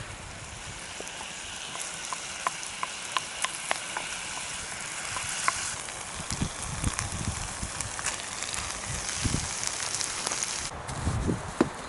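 Food sizzling in oil in a pan on a campfire: a steady hiss with frequent sharp little pops. Low knocks join in from about halfway, and the hiss thins out suddenly near the end.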